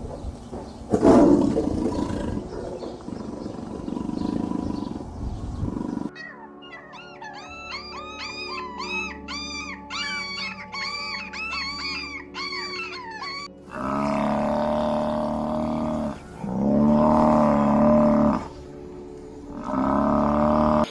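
A run of different animal calls: rough, loud calls for the first six seconds, then a fast series of high, arching chirps, then three long pitched calls of about two seconds each, one after another.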